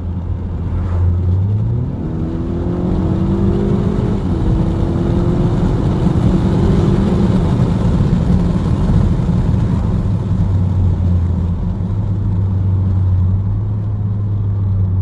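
2019 Honda Accord Sport's 2.0-litre turbocharged four-cylinder with a muffler delete, accelerating hard under an automatic gearbox: the exhaust note climbs, drops at an upshift about four seconds in, climbs again, then eases back to a steady low cruise after about ten seconds. A deep exhaust tone.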